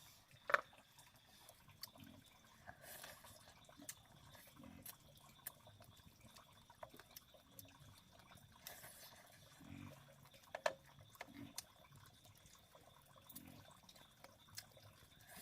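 Faint dripping and trickling water, with a few sharp drip-like clicks, the loudest about half a second in, over a faint steady high tone.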